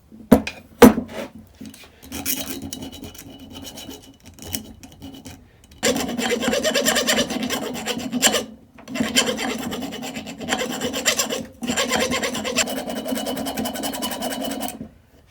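Grinding down a small lip of aluminium on a Honda XR250L cylinder head, in three long, steady passes in the second half, with two sharp knocks near the start and lighter scraping in between.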